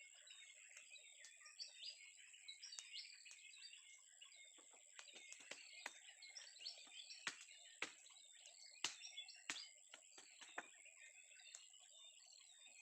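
Faint forest ambience: many small birds chirping, over a steady high-pitched whine. There are scattered sharp clicks in the middle.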